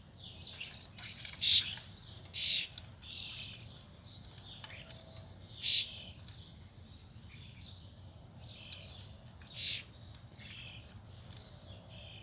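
Songbirds chirping and calling: a run of short, sharp calls at irregular intervals, a few of them standing out much louder than the rest.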